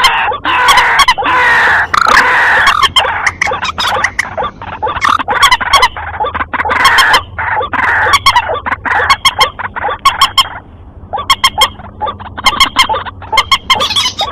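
Recorded lure calls of white-breasted waterhen and common moorhen: loud, dense runs of rapid repeated clucking notes and sharp clicks. The calling thins out briefly around eleven seconds in, then picks up again.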